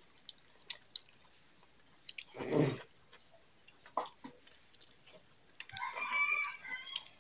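Close-up chewing and wet lip smacks of people eating rice and chicken curry by hand, with scattered clicks, a louder noisy burst about two and a half seconds in, and a short pitched sound near the end.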